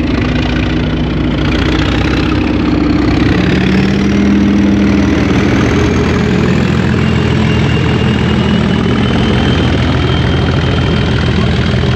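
Class 37 diesel locomotive's English Electric V12 engine working hard as the train pulls away, loud and steady. A thin whistle rises in pitch over the first few seconds, then holds as a steady high tone.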